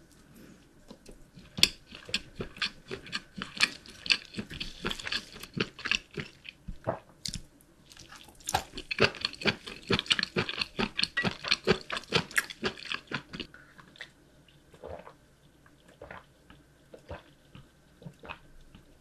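A person chewing food close to the microphone. Dense, crisp crunching runs through most of the stretch, then eases to quieter, sparser chewing over the last few seconds.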